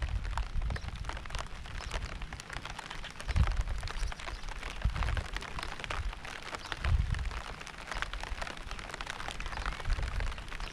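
Steady rain pattering, a dense run of drops ticking on surfaces, with a few deep low rumbles coming and going every couple of seconds.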